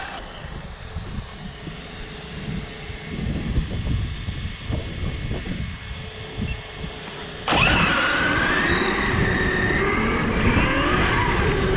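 ARRMA Talion 6S RC car with a brushless motor: a low rumble at first, then about seven seconds in a sudden jump to a louder run. The motor's high whine rises and falls with the throttle over the rough noise of the tyres on the ground.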